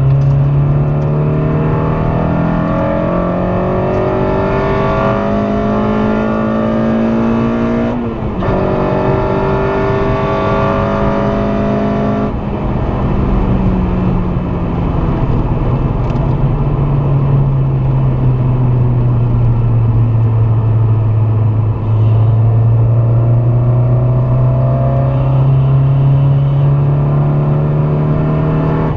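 K24A2 2.4-litre four-cylinder engine in a Honda Civic Si pulling hard under acceleration, its note climbing for about eight seconds, dropping sharply on an upshift, then climbing again. About twelve seconds in the driver lifts off and the note falls slowly, then it rises again under throttle near the end, over steady road and wind noise.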